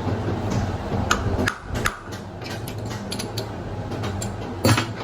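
Sharp metal-on-metal taps and clinks, a handful scattered through the middle and the loudest near the end with a brief ring, over a steady low hum.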